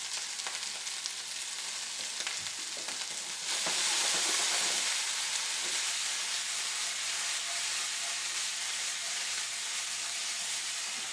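Edamame and corn sautéing in oil in a hot pan, sizzling steadily. The sizzle grows louder about three and a half seconds in, and there are a few light clicks of stirring.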